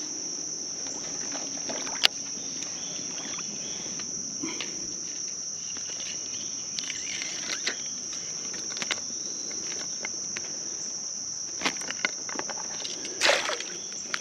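A steady high-pitched insect chorus drones on, with scattered clicks and knocks and one louder, short noisy burst near the end.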